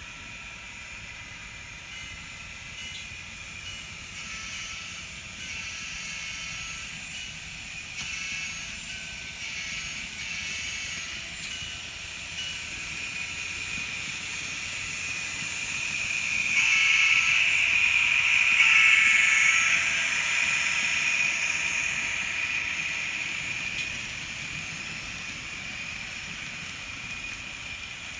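Sound-equipped N scale Kato SD70 locomotive's decoder playing diesel locomotive sounds through its tiny speaker, thin and high with no deep bass. It grows louder from about halfway in, peaks for a few seconds, then eases off again.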